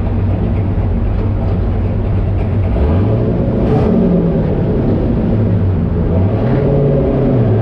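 Turbocharged LS V8 engine running under way, its pitch climbing about three seconds in and again near the end as it accelerates.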